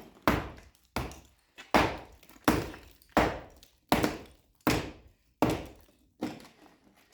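Demolition strikes on the brick masonry of an old fireplace, freeing its iron reinforcing bars: about nine heavy blows at an even pace, a little under one a second, each dying away quickly.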